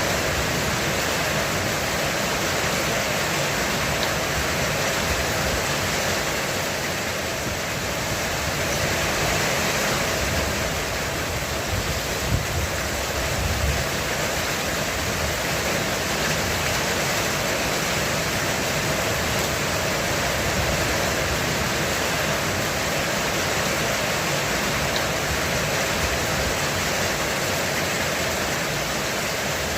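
Heavy rain falling steadily on a roof, an even dense hiss, with a brief low rumble about halfway through.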